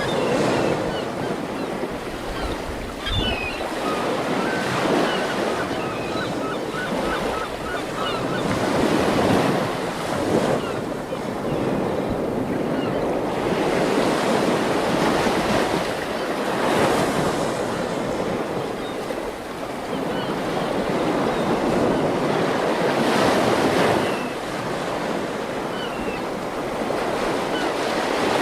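Ocean surf: waves breaking and washing on the shore in a steady rush that swells and falls back every few seconds.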